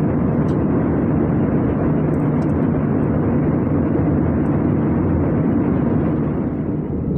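Steady, loud rush of air and engine noise inside the cabin of an Airbus A320 airliner, dipping slightly near the end.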